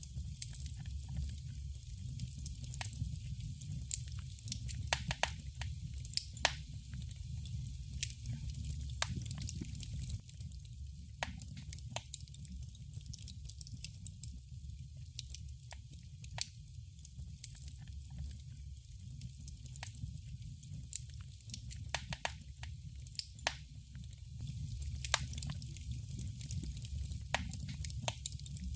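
Wood fire crackling in a fireplace: irregular sharp pops and snaps, some in quick clusters, over a steady low rumble of the flames.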